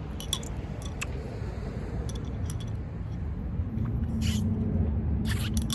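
A handful of short, light clicks and taps at irregular moments over a steady low rumble, with a low hum coming in about two-thirds of the way through.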